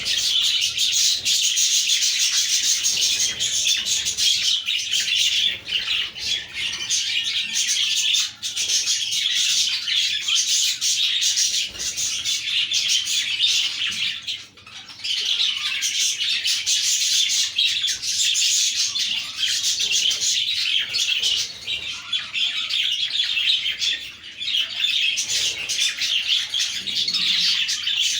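A colony of budgerigars chirping and warbling together in a dense, unbroken chatter, with a brief lull about halfway through.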